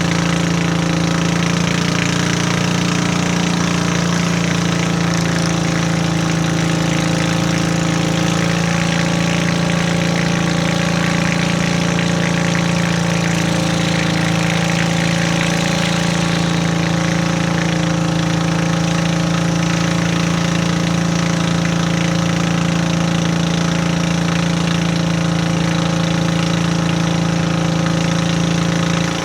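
Hitachi excavator's Isuzu 6BD1 six-cylinder diesel engine running steadily at a constant speed.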